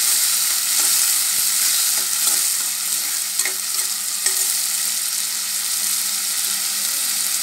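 Chopped onion and tomato sizzling steadily in hot oil in a pressure cooker pan, stirred with a steel spoon that makes a few light scrapes and clicks against the metal.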